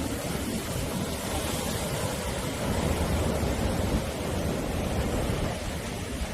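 Sea surf washing and breaking on the shore as a continuous rushing noise with a deep rumble, swelling a little about halfway through.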